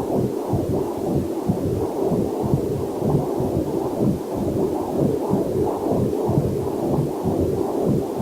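Heartbeat picked up by a fetal Doppler monitor: a rhythmic whooshing pulse, a little over two beats a second, with faint waterfall noise mixed in beneath it.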